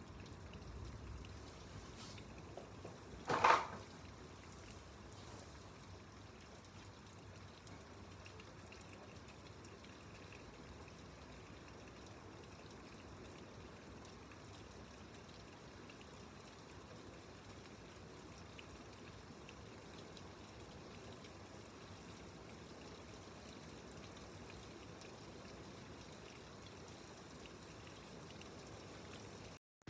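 Steady heavy rain, pouring and trickling water running throughout. One short sharp sound stands out about three seconds in.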